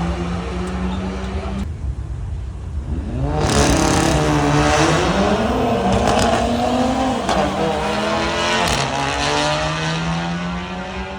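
Car engine running at a steady pitch, then from about three seconds in revving hard, its pitch rising and falling, before settling back to a steady drone near the end.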